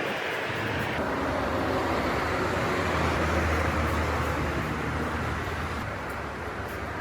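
Steady road and engine noise of a car, with a low hum that swells toward the middle and eases off near the end.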